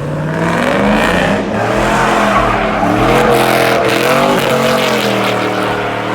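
Truck engine revving hard and held high, its pitch swinging up and down, over a rushing hiss of tyres spinning in a burnout.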